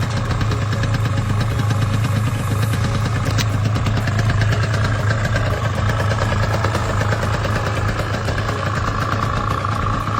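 Suzuki RG125 Gamma's single-cylinder two-stroke engine running steadily, freshly started by kickstart after four months unused.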